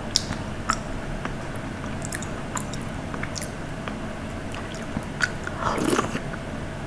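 Close-miked eating sounds: a person chewing food, with scattered small wet clicks and smacks and a louder, longer smack about six seconds in.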